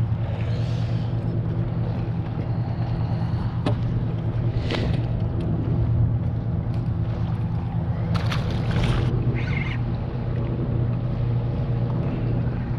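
Boat engine running steadily with a low hum, with a few brief knocks and short splashy or rustling noises on board.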